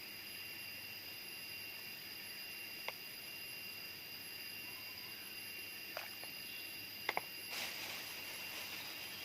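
Steady high-pitched drone of jungle insects, with a few sharp clicks and a short rustle about seven and a half seconds in.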